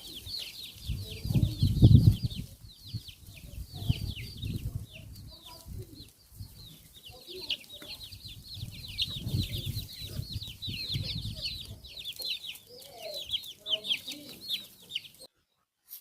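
Domestic chickens clucking now and then, over a steady, rapid, high-pitched chirping, with bursts of low rumbling.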